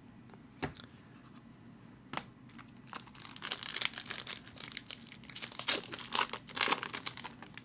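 A 2011-12 Upper Deck SP Authentic hockey card pack being torn open and its wrapper crinkled. A few sharp clicks come first, then dense crinkling and tearing from about three seconds in, with the sharpest crackles near the end.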